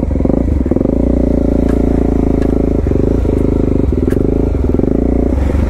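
Suzuki DR-Z400S's carbureted single-cylinder four-stroke engine, fitted with a slip-on exhaust, running steadily under way on a trail. It dips briefly a few times as the throttle eases, with a few light clicks.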